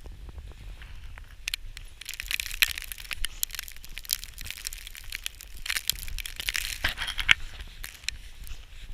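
Dry snow crunching and crackling in two stretches, the second ending shortly before the close, over a low rumble of wind on the microphone.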